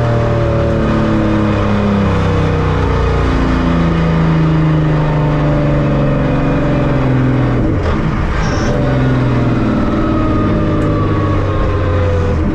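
3.6 VR6 drag car engine running loudly, its pitch sliding slowly downward over several seconds at a time. A thin high whine falls gradually alongside it in the second half.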